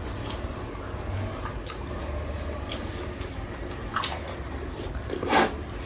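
People chewing and biting into whole chicken, with small scattered clicks of mouth and eating noise. A short, louder noise comes about five seconds in.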